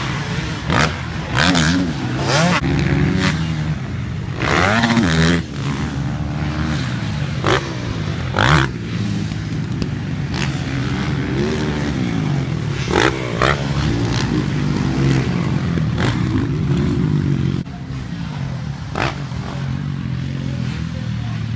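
Dirt bike engines revving up and down as riders go round a motocross track. There are sharp knocks at irregular intervals throughout.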